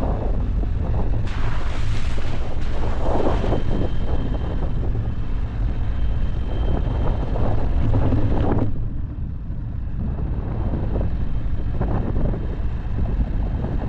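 Dacia Duster driving off-road: a steady low engine and tyre rumble with wind buffeting the microphone. A harsher hiss rides over it from about a second in until about nine seconds, then drops away.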